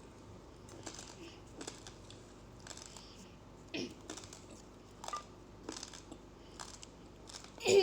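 Uncooked rice grains crunched between the teeth, a crisp crunch about once a second. Near the end comes a short louder sound that falls in pitch.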